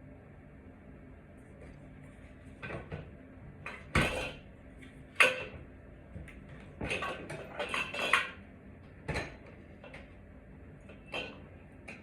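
Irregular clinks and clatter of hard metal objects being handled and knocked together, about a dozen sharp knocks, with a cluster in the middle and the loudest about four and five seconds in.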